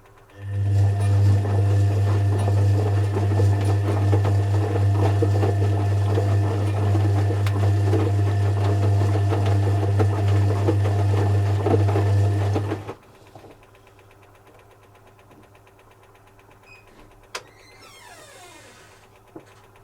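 Zanussi FC1000 compact washing machine running with a loud, steady low hum for about twelve seconds, then stopping abruptly. One sharp click follows in the quiet near the end.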